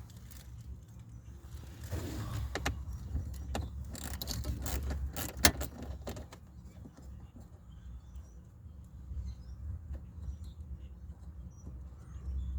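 A run of sharp clicks and light metallic rattles from about two to six seconds in, then fainter scattered ticks: hand tools and plastic parts being handled as an HVAC door actuator is taken back out from behind a truck's dash.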